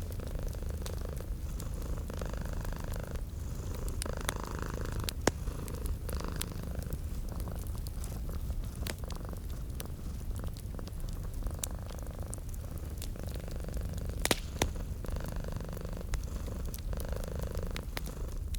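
Domestic cat purring in a close, steady rumble that swells and eases with each breath, every second or two, over scattered pops and crackles from a wood fire, the sharpest about five and fourteen seconds in.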